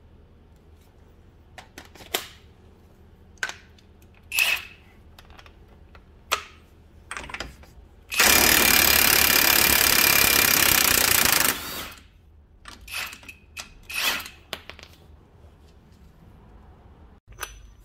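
Hercules Ultra Torque 1/2-inch cordless impact wrench hammering on the wheel hub for about three and a half seconds, starting about eight seconds in and cutting off sharply. A few short knocks and clicks come before and after it.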